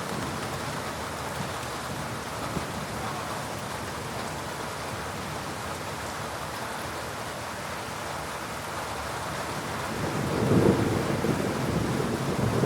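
Steady heavy rain falling during a thunderstorm. About ten seconds in, a low rumble of thunder swells and rolls on.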